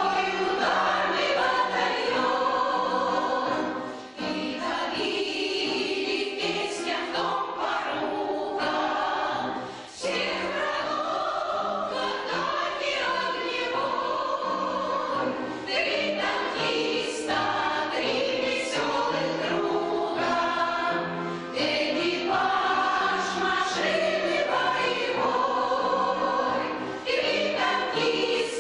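A choir singing a song with instrumental accompaniment, with a couple of short breaths between phrases.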